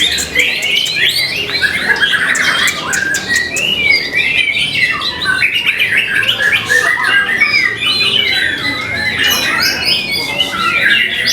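White-rumped shama (murai batu) singing a continuous, rapid song of quick varied whistled and chattering notes.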